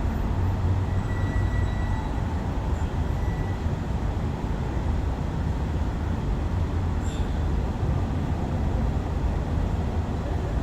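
A steady low rumble of vehicle noise, even in level throughout, with a faint tick about seven seconds in.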